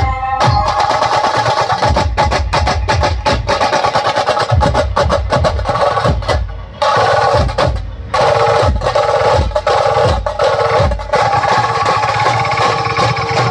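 Indian brass band playing an aarti tune: horns carry the melody over fast, dense drumming with snare rolls. The melody drops out for about a second in the middle, then comes back.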